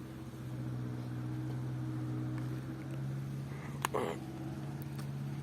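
A 4x4 truck's engine running steadily, with a sharp knock about four seconds in.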